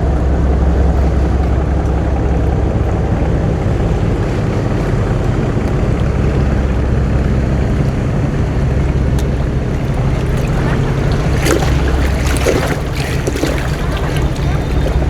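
Boat engine running steadily with a low drone, over water and wind noise. From about ten seconds in there are a few short knocks.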